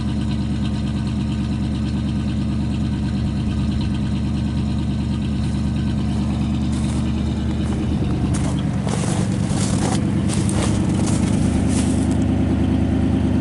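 A 1986 Pontiac Parisienne's carbureted engine idling steadily while it warms up after a cold start in sub-zero weather; its choke still needs adjusting. About eight seconds in, the engine's tone shifts slightly, and a run of short, sharp clicks and scrapes is heard over it for a few seconds.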